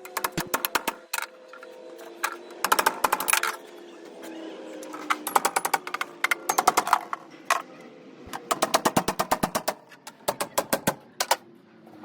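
Pneumatic impact wrench hammering in several short bursts of rapid clicks, about a second each, with pauses between.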